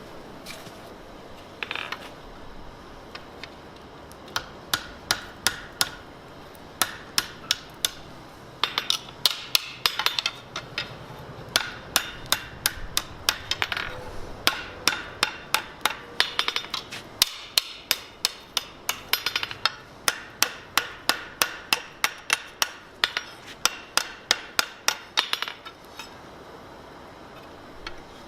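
Blacksmith's hammer striking a steel bar on an anvil while forging a finial, in runs of quick blows about two to three a second. Each strike gives a sharp metallic ring, and there are short pauses between runs.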